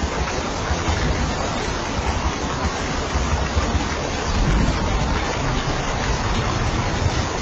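Steady, heavy rain making a dense, even hiss, with a low rumble swelling briefly about four to five seconds in.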